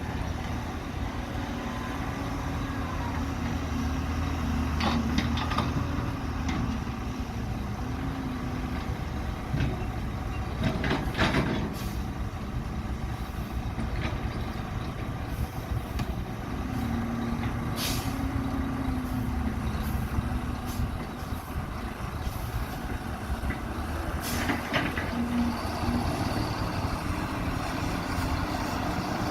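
Excavator and dump truck diesel engines running at a worksite, the engine note swelling and easing in spells as the excavator works. Several short clatters break in, the loudest about eleven seconds in.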